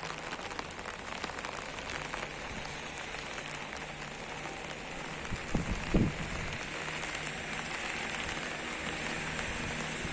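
Rain falling steadily on hard surfaces, a continuous patter of drops, with a couple of louder dull knocks a little past halfway.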